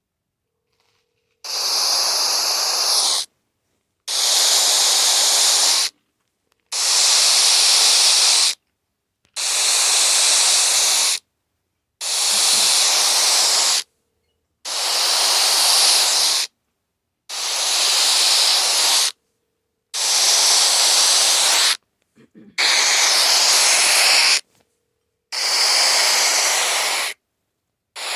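Phone giving out static in place of its ringtone: bursts of hiss about two seconds long, separated by short silences, repeating in an even ring cadence about ten times. The static starts about a second and a half in.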